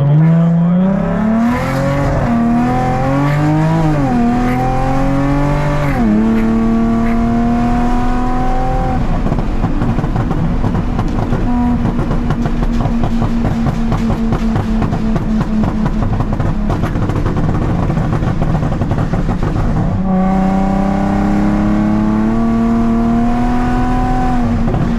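Straight-piped Nissan 370Z's 3.7-litre V6 exhaust under acceleration, the revs climbing and dropping twice as at upshifts in the first six seconds, then holding steady. From about nine seconds it settles into a rougher, steady rumble, and near twenty seconds the exhaust note comes up clearly again and climbs slowly.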